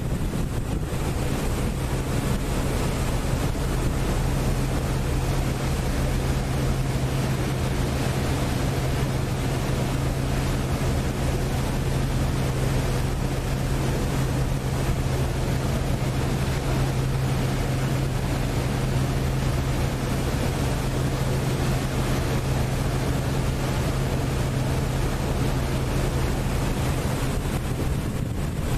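Passenger lake boat under way, its engine giving a steady low hum beneath a broad, even rush of wind and water noise.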